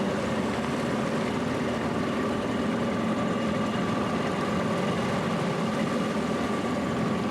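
Outboard motor of a Zodiac inflatable raft running steadily under way, an even hum with no change in pitch.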